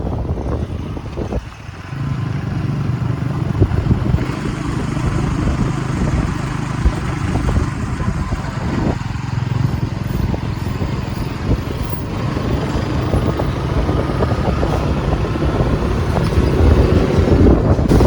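Bajaj NS200's single-cylinder engine running at a steady highway cruise, with wind rushing over the microphone. Its steady note sets in about two seconds in, after a brief dip.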